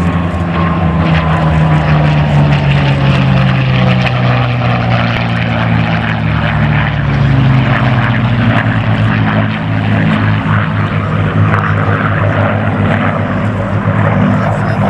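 Piston engines of two Merlin-powered WWII fighters, a Hispano Buchon and a Curtiss P-40F, flying by in a tail chase. The engine note is loud and continuous, falls in pitch over the first few seconds as they pass, then drones on steadily.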